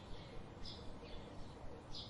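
Wild songbirds giving a few faint, short, high chirps over a low steady background hiss.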